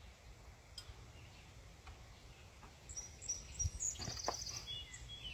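A bird chirping over a steady low background rumble, with a quick high trill about four seconds in. A few short sharp clicks come just before and during the trill.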